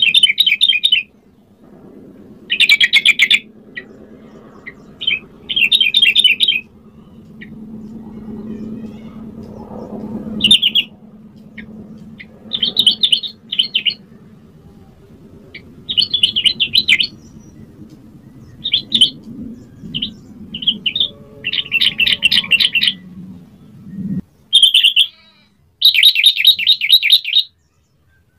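Yellow-vented bulbul singing: short bubbling phrases of rapid notes, each about a second long, repeated every second or two. A faint low hum lies underneath and stops near the end.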